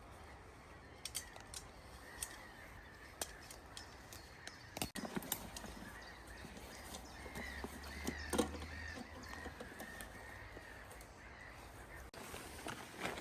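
Birds calling, a series of short calls that come thickest in the second half, with a few sharp clicks and knocks.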